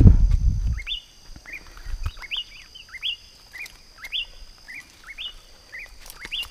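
A bird calling over and over in short chirps that sweep up and then fall, about two a second, with a faint steady high whine underneath. A low rumble fills the first second, and there is a single thump about two seconds in.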